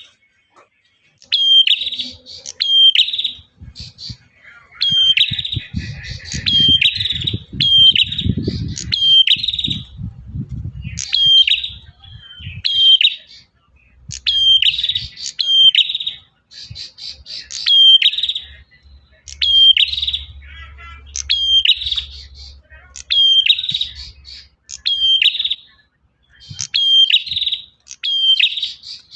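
Male prinia singing: a loud, sharp chirping phrase repeated again and again in quick groups of two or three notes. It is a lure call for drawing a female.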